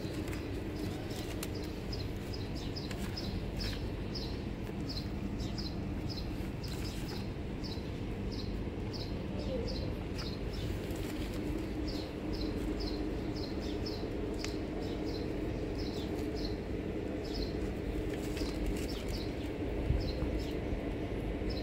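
Small birds chirping repeatedly in quick clusters of short, high, falling chirps, over a steady low background hum.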